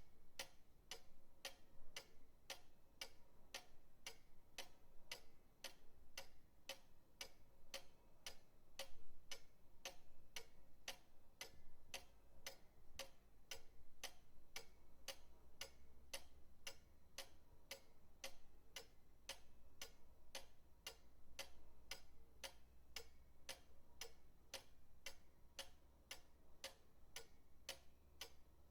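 Pendulum clock ticking steadily and evenly, about two ticks a second.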